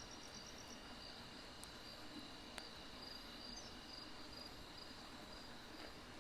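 Crickets trilling steadily in high-pitched pulsed calls, with a single faint crackle from burning firewood about two and a half seconds in.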